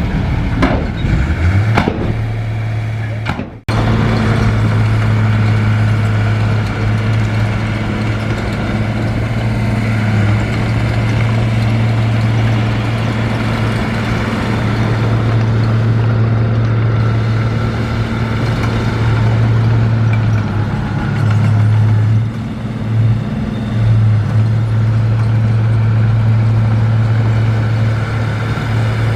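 Heavy diesel earthmoving machinery running with a steady low drone. A few knocks sound in the first two seconds, and the sound breaks off sharply about three and a half seconds in before the drone carries on.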